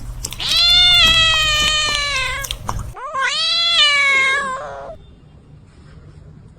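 A cat meowing loudly twice in long, drawn-out calls. The first lasts about two seconds and sags slightly in pitch; the second rises and then falls.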